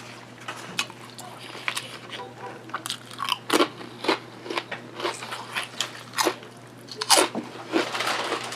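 A person chewing crunchy food close to the microphone: irregular sharp crunches, one or two a second, the loudest about halfway through and near the end.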